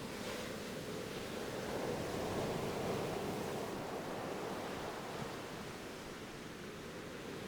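Ocean waves washing on a shore: a steady rush of surf that swells a little and then eases.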